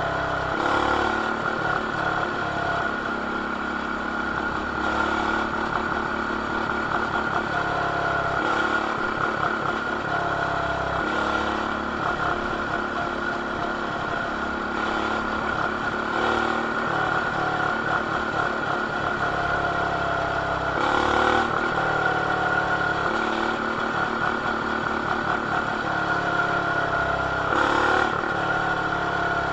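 Coleman BT200X mini bike's small single-cylinder engine, with an aftermarket header and RLV exhaust, running while ridden. The revs rise and fall again and again, with brief louder surges every few seconds, heard muffled through a camera's plastic case.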